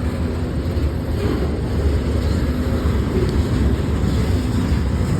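A short CSX local freight train rolling past, a steady low rumble.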